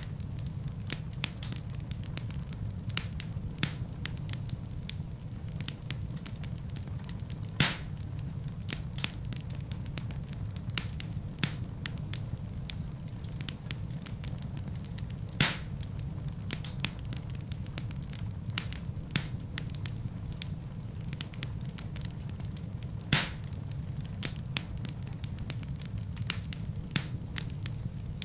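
Wood fire crackling in a fireplace over a steady low rumble, with frequent small snaps and three louder pops spaced about eight seconds apart.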